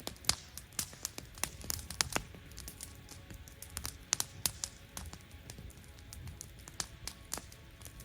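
Campfire wood burning, crackling with irregular sharp pops, several a second, some louder than the rest.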